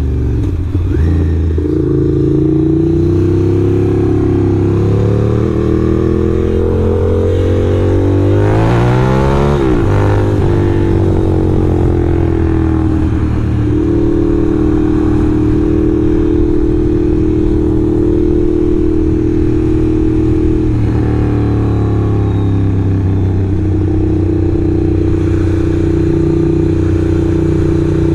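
Ducati motorcycle engine under way: it revs up hard about a third of the way in, shifts up, then holds a steady cruise, with a brief drop in pitch past the middle before settling again.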